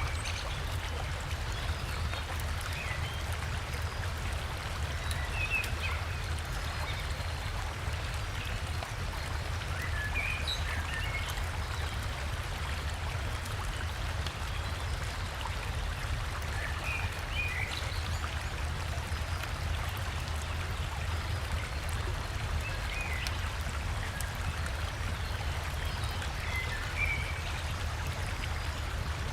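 River water and a small waterfall flowing steadily, with a low rumble underneath. Short bird chirps come in every few seconds over the water.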